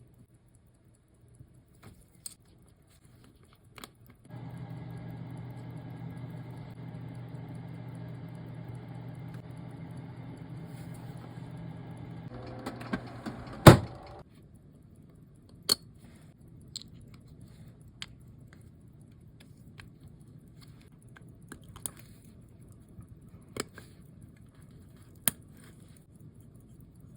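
A small electric motor hums steadily for about ten seconds, then shuts off with a sharp click. After that come scattered light clicks and taps of small tools on a watchmaker's bench.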